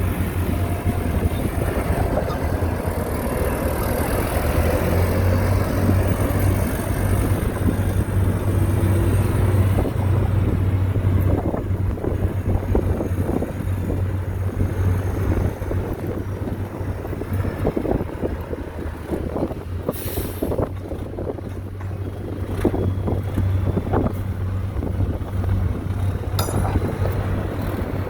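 Diesel engine of heavy earthmoving machinery running steadily with a deep hum. From about a third of the way in, a rapid, irregular clatter of knocks joins it, with one sharp crack about two-thirds of the way through.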